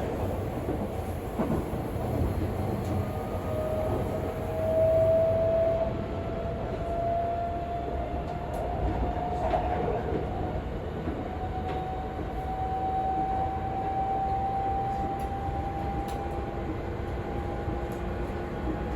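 Seibu 40000 series electric train running, heard from inside the car: a steady rumble of wheels on track, and a motor whine that climbs slowly in pitch as the train gathers speed.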